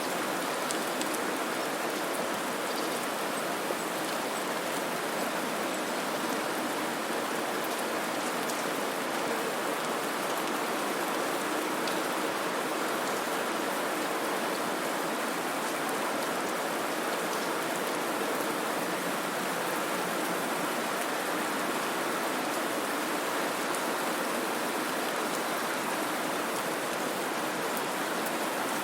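Steady, even white-noise hiss that sounds like rain falling, with faint scattered ticks in the treble.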